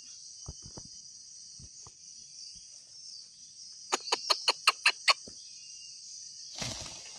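Great argus pheasant calling: a quick run of about seven short, loud notes around the middle, over a steady high insect drone. A brief rustle comes near the end.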